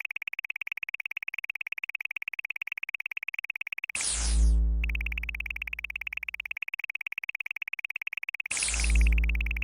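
Synthesized sound effects: a rapid, steady electronic chirping pulse with two deep synth booms, the first about four seconds in and the second near the end, each opening with a falling sweep and fading away.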